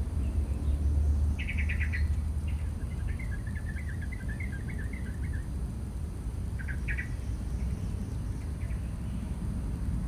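Small bird chirping in short bursts: a quick cluster of notes about a second in, a twittering run over the next few seconds, and a couple of notes near the middle. A steady low rumble runs underneath, strongest in the first few seconds.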